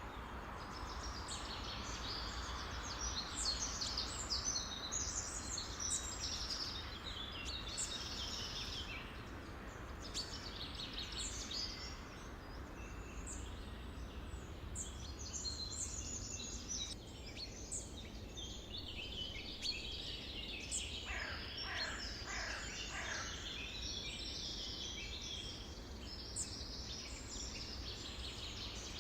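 Several birds singing and chirping at once, a dense chorus of high, quick notes, with a run of falling calls about two-thirds of the way through, over a steady low background rumble.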